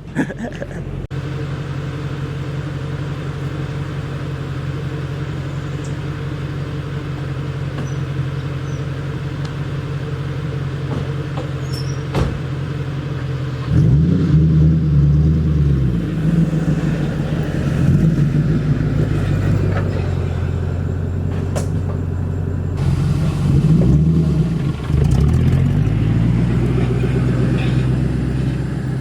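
Ford Mustang GT's 4.6-litre two-valve V8 running with its mufflers removed, driving at a steady note. About 14 s in and again about 23 s in it gets louder and its pitch climbs and drops as the car is accelerated.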